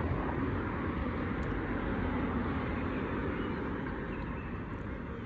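Road traffic: a steady rush of car and tyre noise that eases slightly toward the end.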